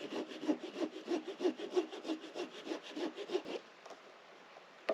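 Hand saw cutting through wood with quick, even strokes that stop about three and a half seconds in, followed by a single sharp click near the end.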